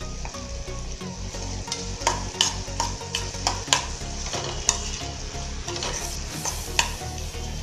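Chopped onions frying and sizzling in oil in a stainless steel kadhai, the onion tempering (phodni) for the potato filling, while a spoon stirs it, knocking and scraping against the pan several times a second.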